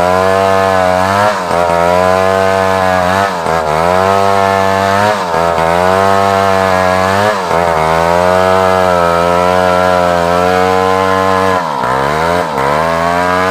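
Large chainsaw cutting through a log of African wood (Maesopsis), its engine held at high revs. Every couple of seconds the pitch dips and recovers as the chain bogs under load in the cut, with two quick dips near the end.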